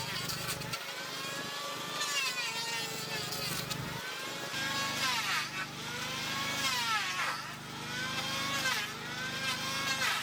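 A small engine running at changing speed, its pitch rising and falling and dipping sharply about three times in the second half.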